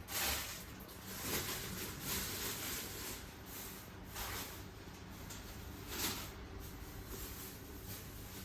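Samsung WF1700WRW front-loading washing machine running: water swishing in the tumbling drum in swells every second or two, over a faint steady hum.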